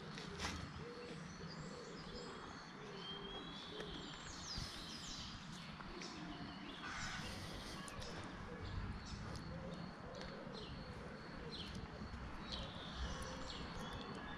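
Songbirds chirping and calling in the trees, with many short, high calls scattered throughout, over a steady low background rumble.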